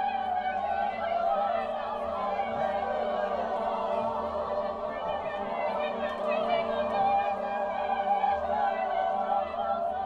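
High school vocal jazz choir singing, many voices holding and shifting chords in one unbroken stretch with no clear words.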